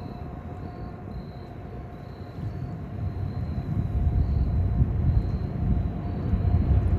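CSX freight train on the move, a low rumble that builds and grows louder about three seconds in.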